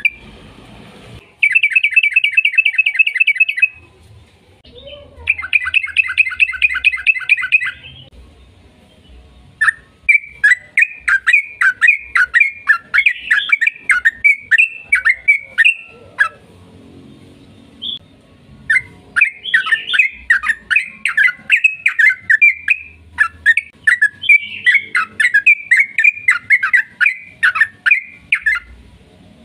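Yellow-vented bulbul (trucukan) singing. Two rapid, even trills come first. Then, from about ten seconds in, long runs of quick, bubbling chattering notes with one short break partway through.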